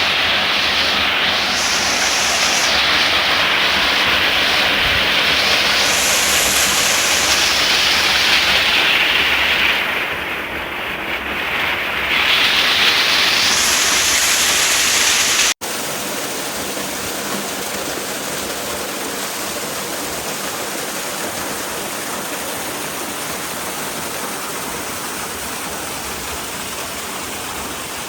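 Steady rush of water falling at a waterfall. About halfway through it breaks off for an instant, then comes back a little quieter and more even.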